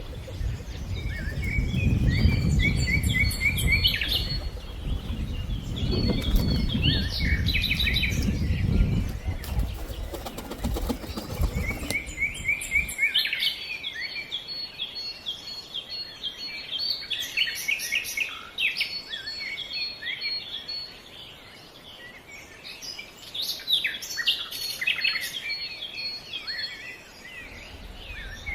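Birds chirping and calling in quick, repeated high notes, with a low rumble under them for roughly the first half that stops about thirteen seconds in.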